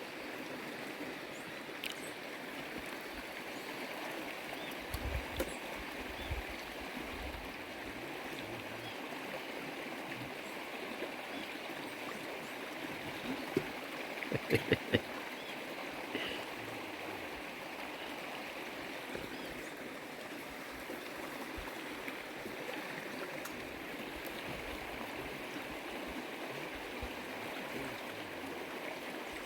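Steady rush of flowing river water. There are a few light knocks about five seconds in and a quick run of sharper knocks around the middle.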